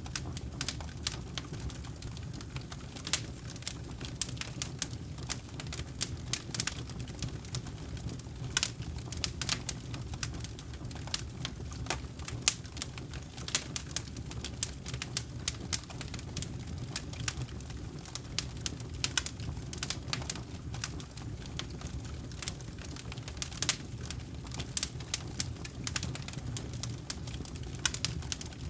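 Wood campfire crackling: many irregular sharp pops and snaps, several a second, over a steady low rumble.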